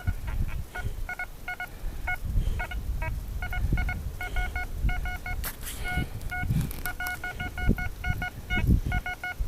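Metal detector beeping in short repeated tones, in pairs and quick runs, as the coil is swept back and forth over a buried target that reads as a possible dime. Low handling thuds and rumble lie under the beeps.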